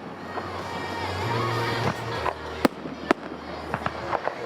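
Aerial fireworks going off: a few sharp bangs in the second half, the loudest two about half a second apart, with smaller cracks around them, over steady music.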